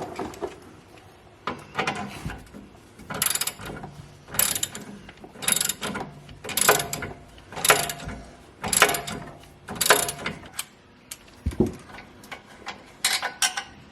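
Hand ratchet wrench clicking in repeated strokes, roughly one a second, as a 13mm socket loosens bolts; the strokes stop about ten seconds in, with a couple more near the end.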